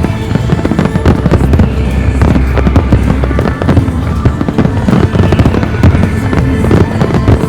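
Fireworks display: a dense, continuous barrage of shells bursting, many bangs a second, over music playing.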